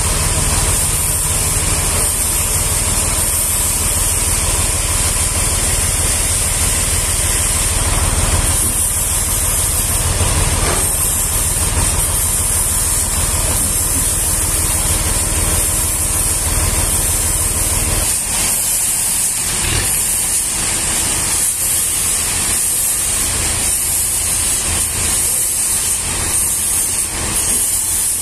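Engine-driven sawmill machinery running: a steady low engine drone under a loud high hiss. About 18 seconds in the engine note drops away, leaving the hiss with scattered knocks.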